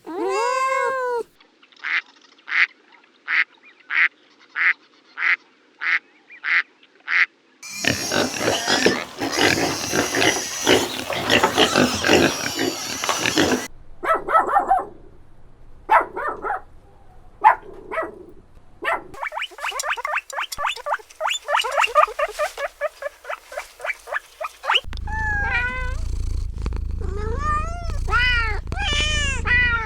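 Farm animals calling, several kinds one after another. A run of evenly spaced short calls is followed by a dense, noisy stretch of many calls at once, then scattered single calls, a rapid string of repeated calls, and pitched calls over a low hum near the end.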